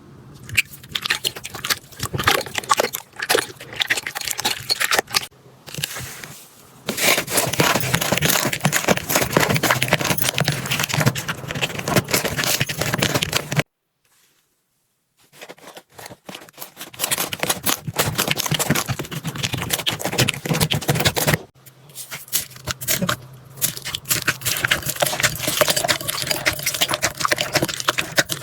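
Slime being squeezed and poked by hand, giving dense, rapid crackling and popping. It comes in several clips with abrupt cuts, and there is about a second of silence about halfway through.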